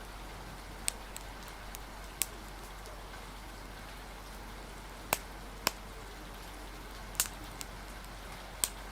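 Steady rain hiss with the sharp, scattered pops of a crackling wood fire, about six pops over several seconds.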